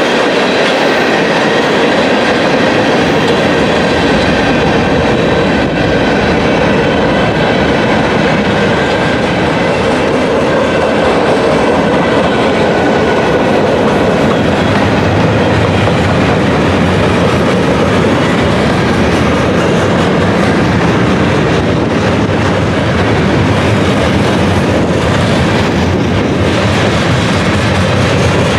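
Train cars rolling past on the rails, a loud, steady run of wheel-on-rail noise with a faint high ringing tone in the first half.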